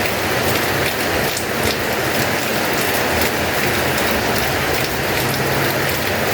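Heavy rain falling steadily, a dense hiss of drops pattering on hard surfaces.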